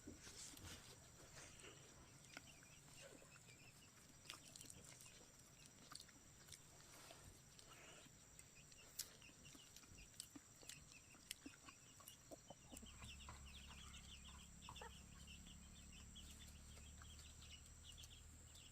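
Faint clucking of chickens among scattered small clicks. A low steady hum comes in about two-thirds of the way through and stops near the end.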